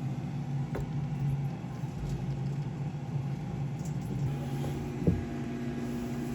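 A steady, low mechanical hum of a running motor or engine, with a few light clicks and knocks over it.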